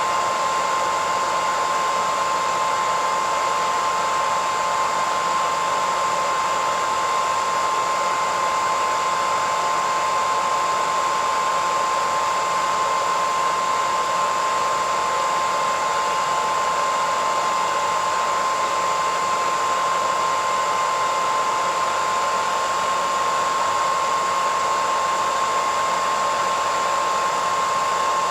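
Hair dryer running steadily: a constant rush of blown air with a steady whine from the motor and fan, unchanging throughout.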